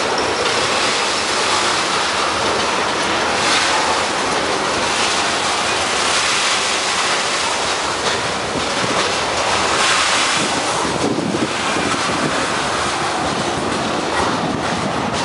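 Freight train rolling past at close range: a steady, loud rush of steel wheels on rail as tank cars and then boxcars go by.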